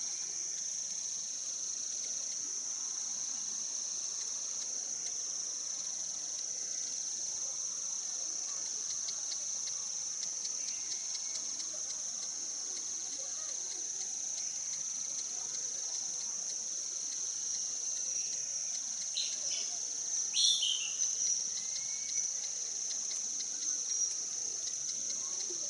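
A steady, high-pitched drone from a chorus of crickets or cicadas, unbroken throughout. A few short bird chirps come about twenty seconds in.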